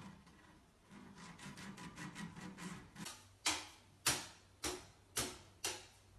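Faint scattered ticking, then from about halfway a regular series of sharp taps, roughly two a second, each dying away quickly.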